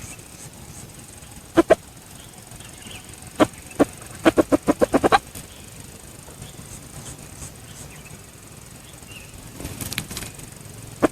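Junglefowl rooster flapping its wings: a few single beats, then a quick run of about seven wing-beats in a second about halfway through.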